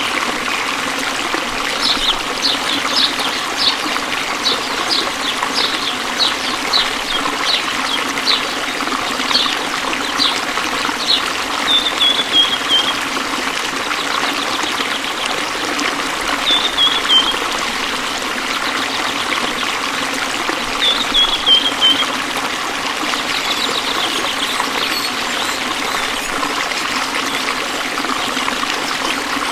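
Waterfall rushing steadily. Over it comes a run of short, high chirps, about two a second, for the first ten seconds or so. Later there are three brief falling trills.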